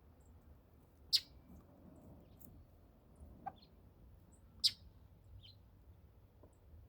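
Northern mockingbird giving short, sharp call notes: two loud ones about three and a half seconds apart, with a few fainter chips in between.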